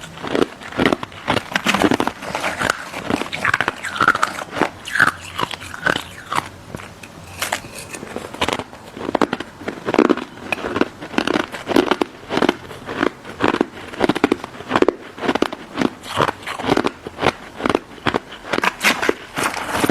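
Crunching bites and chewing of a frozen pink crystal snow ice dessert: a continuous run of sharp, crackly crunches, several a second.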